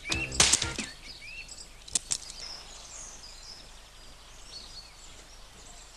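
Faint high chirping, like small birds, over a quiet background, after a short musical phrase dies away in the first second. Two sharp clicks come about two seconds in.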